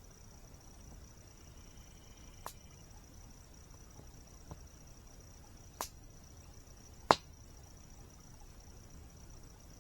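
A campfire crackling with four sharp pops, the loudest about seven seconds in, over a steady high-pitched insect trill.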